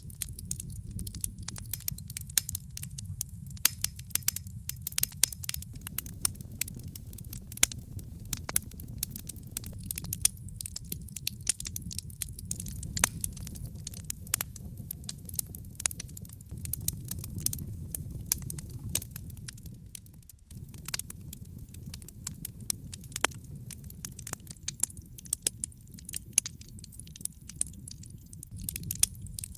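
Wood fire in a fireplace crackling, with frequent irregular sharp pops over a low, steady rumble.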